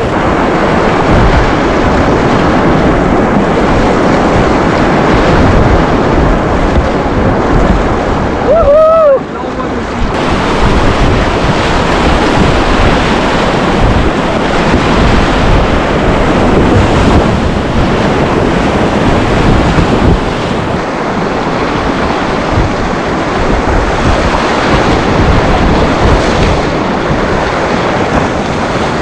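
Whitewater rapids rushing steadily and loudly, with wind buffeting the microphone. About nine seconds in, a short high call rises and falls, and the rush briefly drops.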